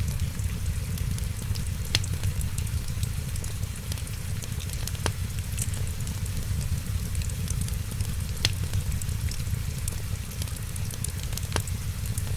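Wood fire crackling steadily, with a few sharp pops spaced several seconds apart over a steady low rumble.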